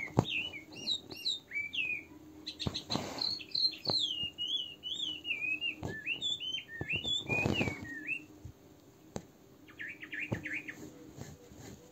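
A songbird singing: a long run of quick, warbling chirps and whistled glides, then a short trill near the end. Two brief rustles, about 3 and 7.5 seconds in, come with the hand stitching beads onto fabric.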